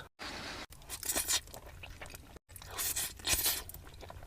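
Close-miked eating: a person crunches into and chews crispy fried chicken, in irregular crunches, the loudest about a second in and again about three seconds in.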